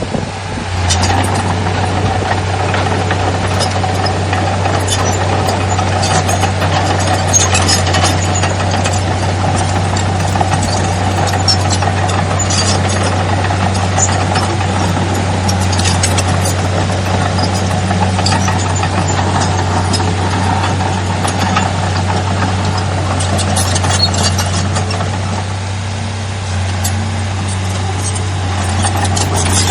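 Heavy diesel earthmoving machinery running steadily with a low engine hum, and scattered metallic clanks and clicks over it.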